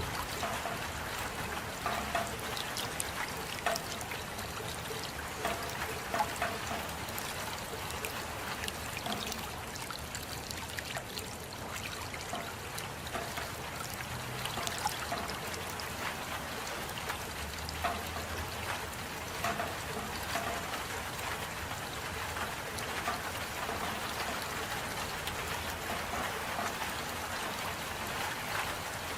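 Steady rain with drips and trickling water, scattered small drop impacts over an even wash of noise.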